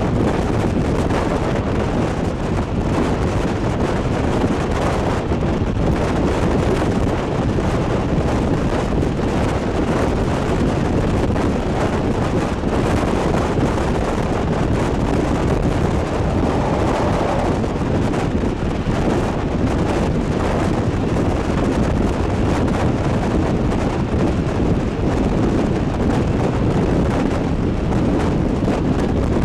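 Steady rush of wind buffeting the microphone, held out of the window of a moving train, over the continuous rumble of the train running along the track.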